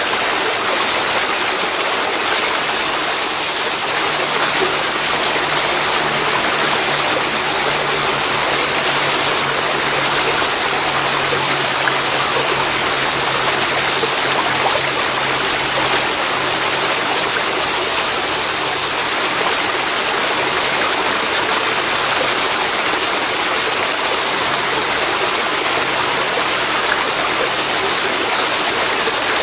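Waterfall pouring into a river: a steady, loud rush of falling and flowing water that does not change.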